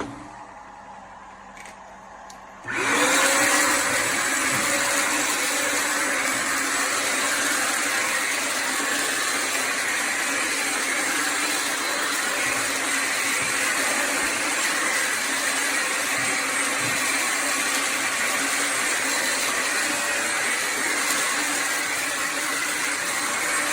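Vacuum motor of a Bissell Symphony Pet vacuum-and-steam-mop switching on about three seconds in, spinning up with a short rising whine, then running steadily.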